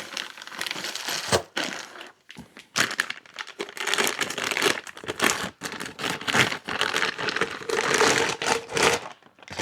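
Packaging crinkling and rustling in irregular crackles, handled while a cat delete pipe is taken out of its box.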